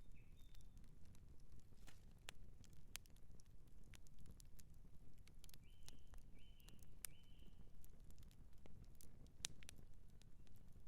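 Campfire crackling: irregular sharp pops and snaps from burning wood over a low, steady rumble. About halfway through come three short high chirps in quick succession.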